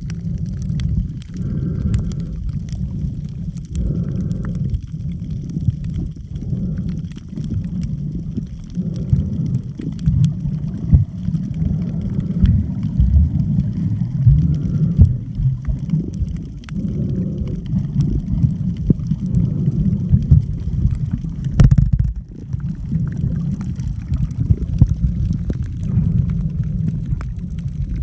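Muffled underwater water noise while snorkeling: a low, irregular churning rumble with gurgling.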